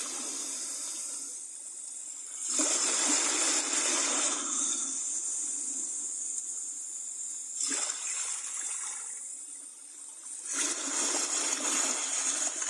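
Rushing, splashing water that swells louder about two and a half seconds in, briefly near eight seconds, and again near the end.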